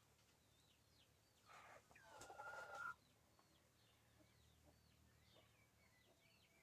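A chicken calling once, about a second and a half long, ending on a held note that cuts off suddenly. Faint short high chirps of small birds run under it.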